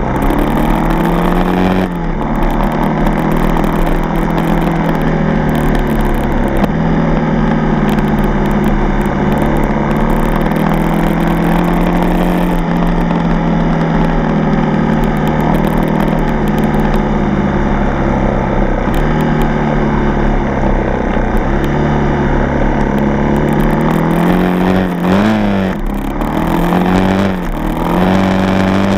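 Dirt bike engine running at steady throttle on a trail ride, its pitch stepping up and down a few times with gear and speed changes. It revs up and down quickly several times near the end.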